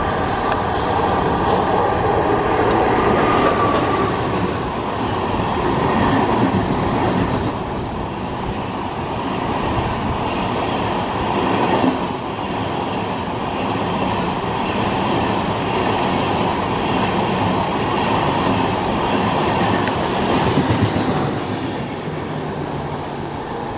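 Express train of LHB passenger coaches, hauled by an electric locomotive, passing close by at speed: a steady loud rumble and rush of wheels on the rails. The noise eases near the end as the last vehicle goes by.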